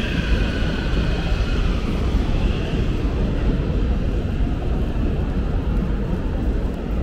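CPTM electric commuter train pulling away along the platform: a steady low rumble of wheels on rails, with a faint electric motor whine that sags slightly in pitch and fades over the first few seconds.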